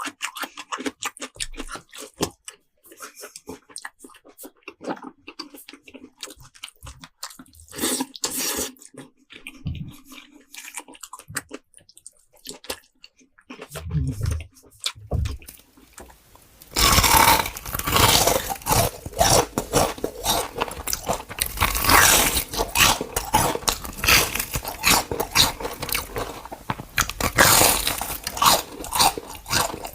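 Close-miked chewing and biting of crunchy food: quieter, scattered crunches and mouth sounds for the first half, then from about halfway a much louder, dense run of crunching bites.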